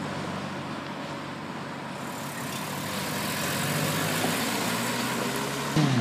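Car engines running as cars move off slowly; one comes closer and gets louder over the last few seconds, its note dropping just before the end.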